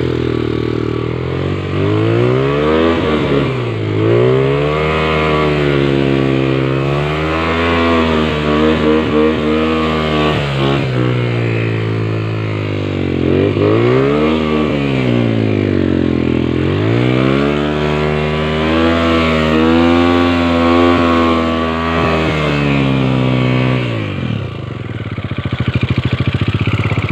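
Motorcycle engine revving up and down again and again, its pitch rising and falling in long swells. About three seconds before the end it drops to a low idle with the separate firing pulses audible.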